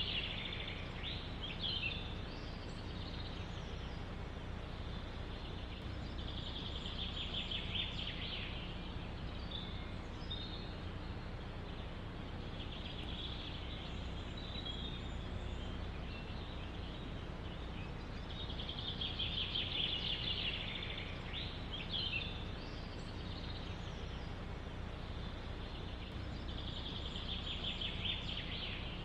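A songbird singing a trilled phrase of about one and a half seconds, repeated roughly every six seconds, with a few shorter chirps between. Underneath runs a steady low rumble of background noise.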